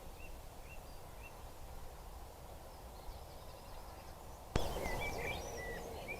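Small birds singing and chirping over a steady background hiss from a trail camera's microphone. About four and a half seconds in there is a sharp click, after which the birdsong and hiss are louder.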